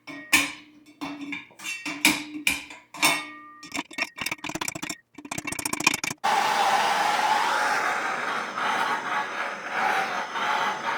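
Metal parts of an air compressor being handled with tools: a run of sharp knocks and clinks, some ringing briefly. About six seconds in, a steady whooshing noise starts abruptly and keeps going.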